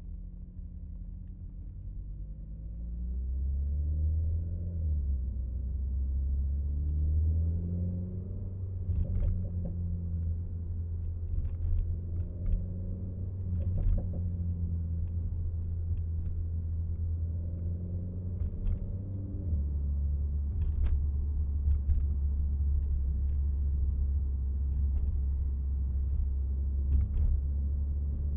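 Renault Mégane RS Trophy's turbocharged four-cylinder engine running on the move, a deep steady rumble with the engine note rising and falling a few times as the revs change, and occasional sharp clicks.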